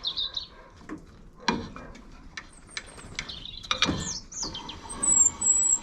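Hand-wound head-lift mechanism of a Frontier OS27 portable sawmill being cranked after repair, clicking and knocking with short high squeaks and a louder squeal near the end; it sounds dry, and the sawyer thinks it needs a bit of oil.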